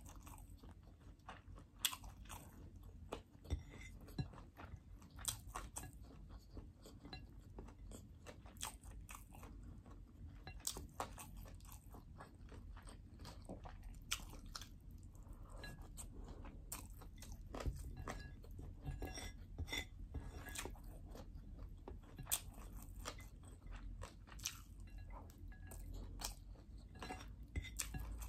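A person eating chicken fried rice by hand close to the microphone: chewing and mouth sounds with many short, sharp clicks.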